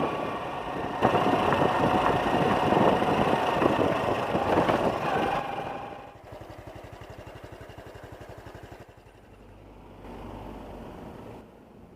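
Honda Cross Cub's small single-cylinder engine with wind rushing on a chest-worn microphone while riding. About halfway through the sound drops and the engine idles with an even, fast putter.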